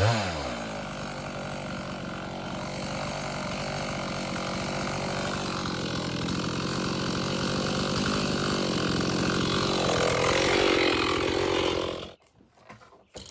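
Chainsaw on a chainsaw mill: the engine's revs fall off at the start, then it runs steadily at a lower speed, slowly getting louder, and is shut off abruptly near the end.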